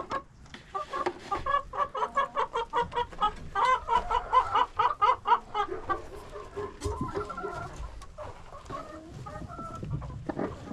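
Chickens clucking, with a fast run of short, repeated calls, several a second, that is loudest in the middle and then eases into quieter scattered clucks.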